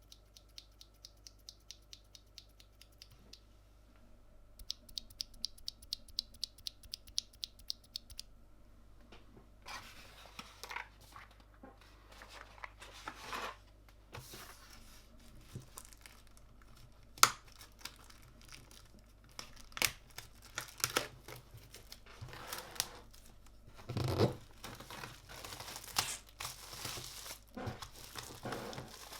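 A quick, even run of clicks, about four a second, then irregular crinkling, rustling and tearing of packaging as keyboard parts are unwrapped, with scattered sharp clicks and knocks.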